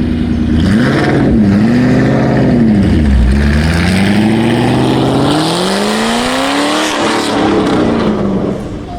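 A performance car's engine being revved up and down a couple of times, then accelerating with a long rising note that drops away near the end as the car pulls off and passes.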